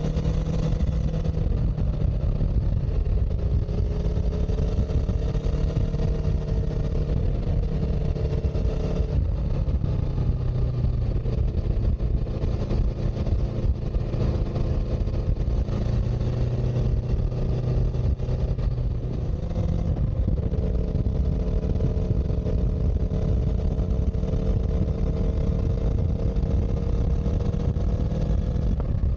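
A vehicle engine running under way, its pitch drifting slowly down and up with speed, over a heavy low rumble of wind and road noise.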